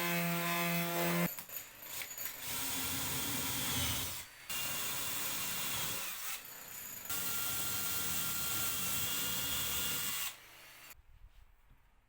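A power tool working on wood in stretches of a few seconds, with short breaks between, stopping about ten seconds in. A steady motor hum is heard at the start.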